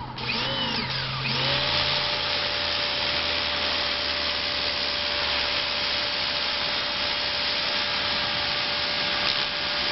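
Ryobi 1,600 psi electric pressure washer running loud: its motor and pump whine at a steady pitch over the hiss of the water jet blasting concrete. The whine rises to pitch and settles about a second and a half in.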